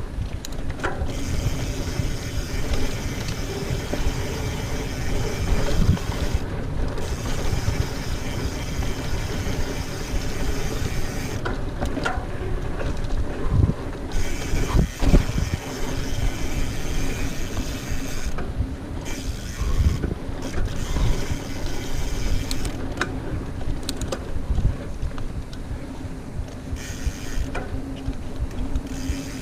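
Mountain bike riding fast over a dirt trail: tyres rolling over the ground with a steady low hum, the chain and bike rattling and clicking over bumps.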